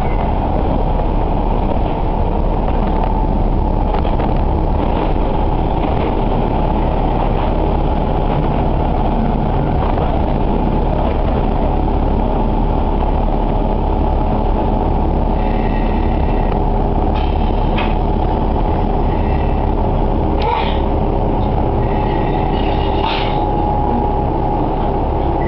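Diesel railcar heard from inside the passenger cabin, with a steady rumble of engine and wheels as it slows into a station. High squealing tones come and go over the last ten seconds as it brakes to a stop.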